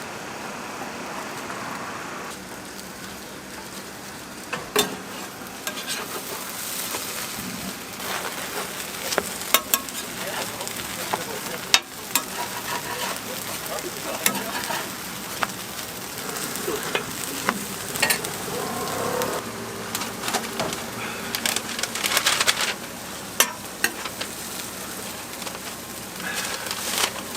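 Egg toast frying on a food-truck griddle: steady sizzling, with scattered sharp taps and clicks from the cooking tools.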